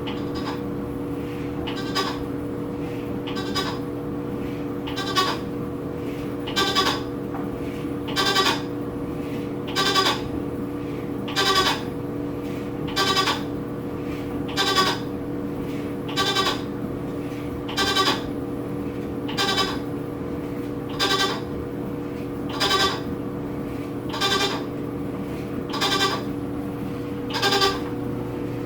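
Whirlpool WTW4816FW top-load washing machine running with a steady hum and a short, high squeak repeating about every second and a half. The new machine's squeak is odd and irritating enough that its owner questions whether it is normal.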